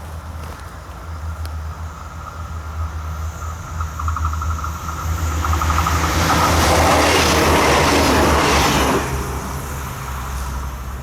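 A train passing over a level crossing: its noise builds, is loudest for about three seconds, then falls away sharply about nine seconds in. Over a steady low hum, the crossing's bell rings as a steady high tone until the train's noise covers it.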